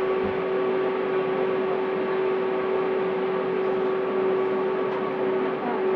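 A train running on the track: a steady mechanical hum with a constant tone over an even rushing noise.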